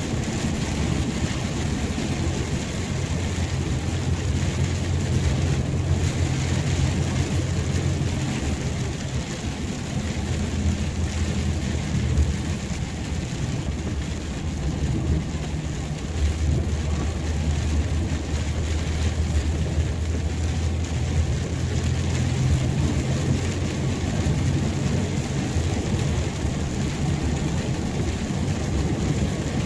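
Rain falling steadily, with a continuous low rumble underneath.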